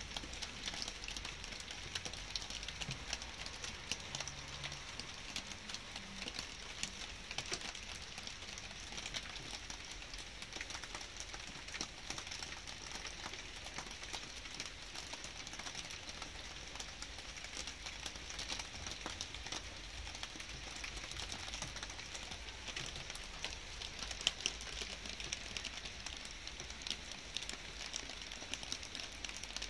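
Light rain falling, a steady soft hiss dotted with many small drops ticking close by.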